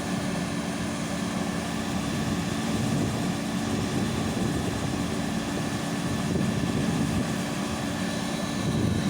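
Diesel engine of heavy farm machinery running steadily under load, a constant drone with a slight rise in loudness near the end.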